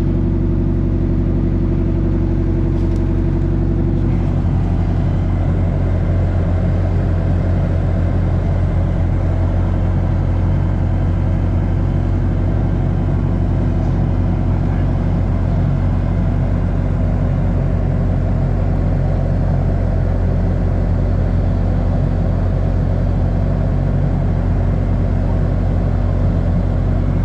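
Diesel engine of a Cat 307SSR excavator running steadily, its tone shifting slightly about four seconds in.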